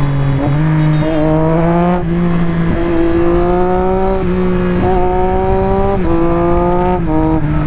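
Triumph Street Triple 675's three-cylinder engine running under way through its SC-Project aftermarket exhaust. Its pitch climbs and then drops back several times.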